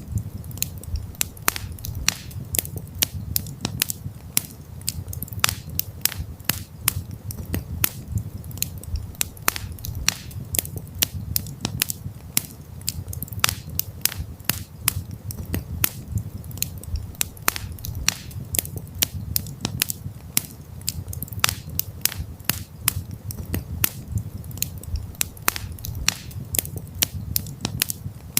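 Wood campfire crackling: many irregular sharp pops and snaps over a steady low rumble of the flames.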